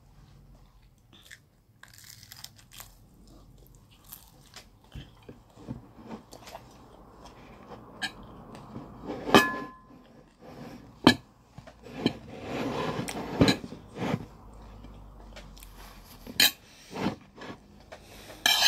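Close-up chewing and biting of roast chicken and jollof rice, wet and crunchy mouth sounds, broken by a few sharp clicks and knocks.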